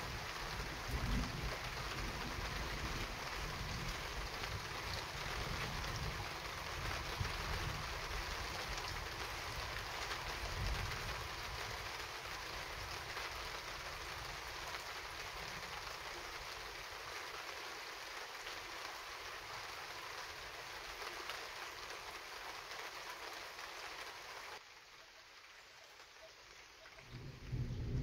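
Steady heavy rain falling in a thunderstorm, an even hiss with a couple of low rumbles. Near the end the rain sound drops away abruptly, and then a low thunder rumble starts to build.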